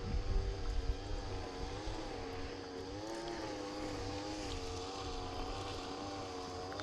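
A motor running steadily, its pitch wavering slightly up and down, over a low rumble.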